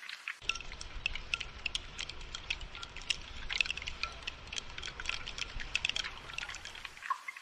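Rainfall: raindrops dripping and pattering in quick, irregular ticks. A low rumble runs underneath from about half a second in until near the end.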